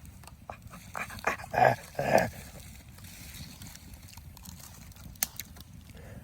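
A person huffing and making short muffled, whimper-like vocal sounds through a mouthful of piping-hot grilled sweet potato, a few quick bursts about a second to two seconds in, then a single click later.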